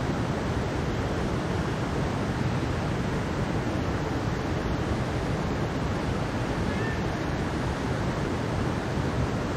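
Mountain stream rushing over rocks in a steady, unbroken flow, heaviest in the low range.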